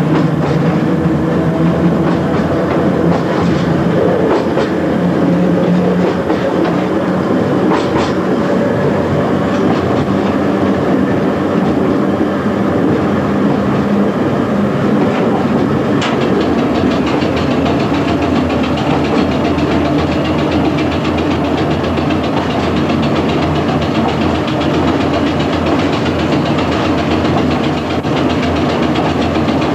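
1927 Standard stock electric tube train running along the line, heard from the driver's cab: a steady running noise with a low hum, and sharp clicks about eight seconds in and again about halfway through.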